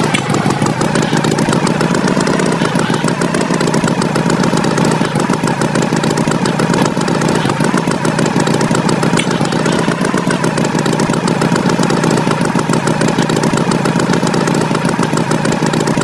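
Tractor engine running steadily, a fast even chugging.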